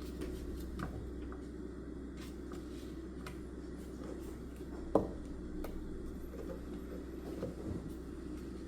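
Quiet room tone with a steady low hum, and small scattered ticks and taps from working at a desk, with one sharper tap about five seconds in.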